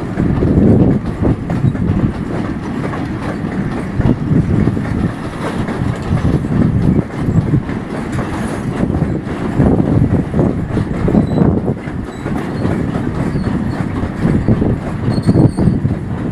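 Railway oil tank wagons rolling past at about 31 km/h, their wheels clattering over the rail joints with a steady low rumble that swells and fades in a regular rhythm as each wagon goes by.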